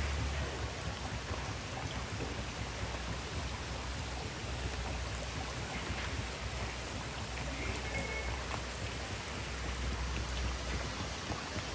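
Heavy rain pouring steadily onto a swimming pool, paving and a screened pool enclosure, as a dense, even hiss. A low rumble comes and goes underneath it.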